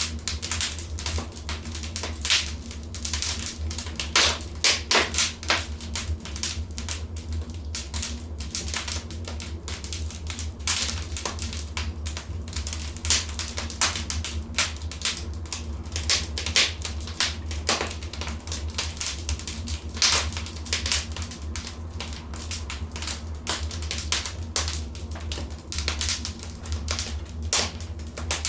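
Wood fire in a fireplace crackling, with irregular sharp pops and snaps, several louder ones clustered around the fifth second and near the twentieth, over a steady low rumble.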